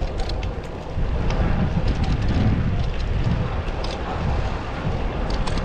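Wind buffeting the microphone of a camera riding along on a road bike, a steady rumble that gets louder about a second in, with scattered light clicks.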